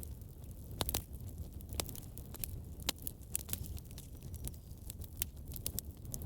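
Wood fire burning in a fireplace, crackling with irregular sharp pops over a low, steady rumble.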